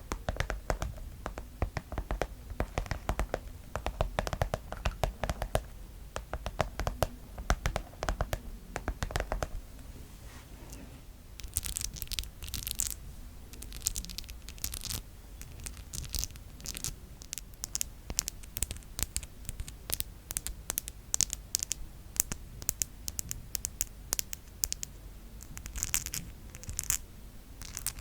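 Rapid fingertip and fingernail tapping on a pencil case, then, about ten seconds in, long nails clicking against each other in quick runs of sharp, high clicks.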